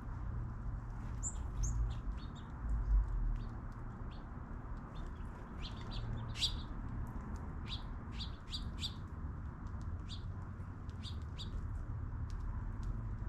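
Small birds chirping: many short, high chirps coming one after another, busiest around the middle, over a low steady rumble.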